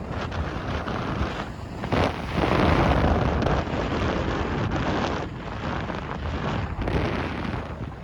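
Wind rushing over the microphone of a Bajaj NS200 motorcycle ridden at highway speed, with road and engine noise underneath. The rush swells louder a few seconds in, then eases.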